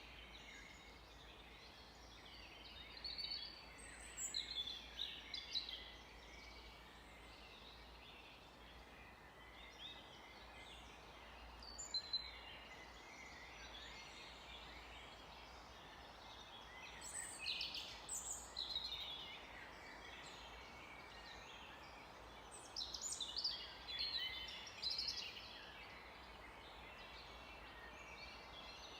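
Forest birds singing: short phrases of high chirps and trills, coming in clusters every few seconds, over a steady faint hiss.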